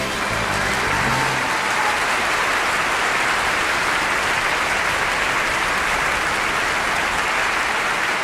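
Steady applause of a clapping crowd. A few low music notes fade out about a second in.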